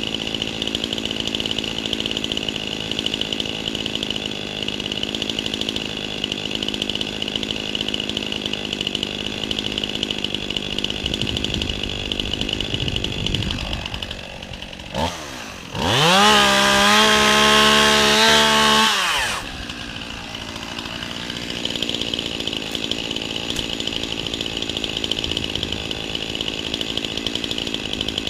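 Two-stroke chainsaw running steadily. About halfway through it dips, then is revved up to full throttle for about four seconds, its pitch rising and holding high, before dropping back to the steady running.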